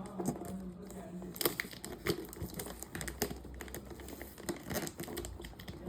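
Packaging being handled and unwrapped: irregular crinkling and tearing with scattered sharp crackles and small knocks.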